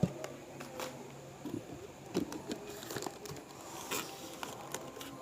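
Scattered crinkling and rustling with small taps and clicks, as paper and cardboard pieces are handled and set into a cardboard mini fridge.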